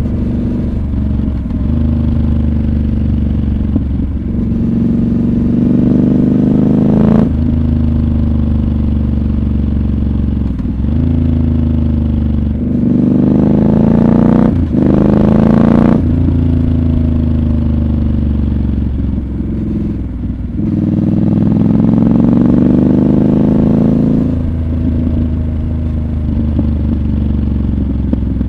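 Triumph Scrambler 1200 XC's parallel-twin engine under way. It climbs through the revs in several pulls, with sharp drops in pitch at the gear changes, and eases off for a few seconds in the middle before pulling up again.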